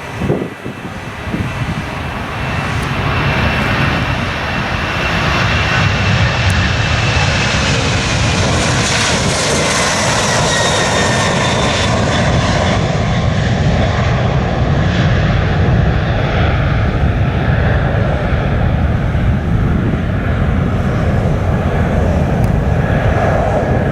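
Jet airliner taking off at full thrust close by: the engine noise builds over the first few seconds, a whining fan tone falls in pitch as the aircraft passes, and a loud, steady low rumble follows.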